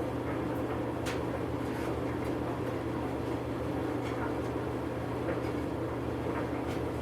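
Steady low background hum, like a fan or electrical hum, with a faint tick about a second in.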